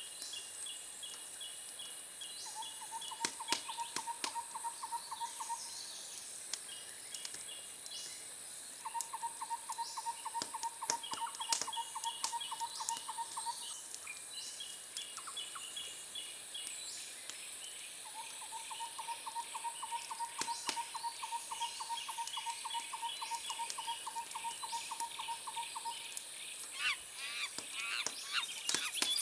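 Wood fire crackling with scattered sharp pops, under rhythmic animal trills: long, evenly pulsed trills repeat several times, alongside shorter, higher chirping trills and a steady high-pitched hum. A quick flurry of chirps comes near the end.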